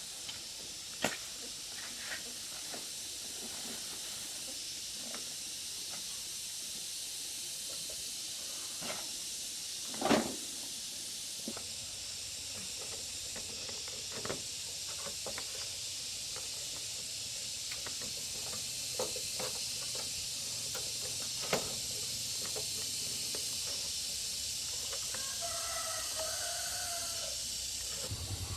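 A steady high hiss, with scattered light clicks and knocks of work going on; one louder knock comes about ten seconds in.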